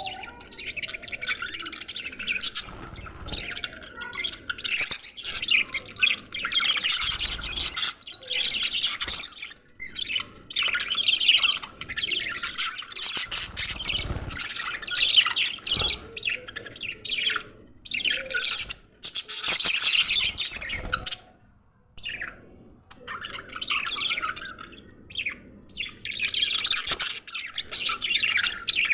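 Several budgerigars chattering and chirping busily with rapid warbles and squawks, with a brief lull about two-thirds of the way through.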